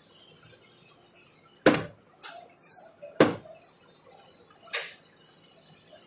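Sharp clicks and taps of small hard objects being handled, with two loud ones about a second and a half apart and a few softer clicks and brief scrapes between.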